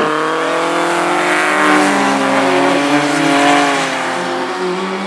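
Race car engines running at high revs, more than one engine heard at once. The pitch climbs and dips with gear changes, then falls away about four and a half seconds in as the cars slow.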